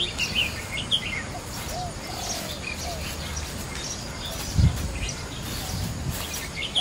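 Small birds chirping and twittering, with a brief low thump about two-thirds of the way through.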